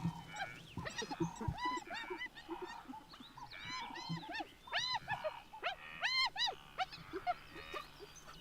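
Hyenas calling during play: many short, high, rising-and-falling squeals and whines in quick clusters.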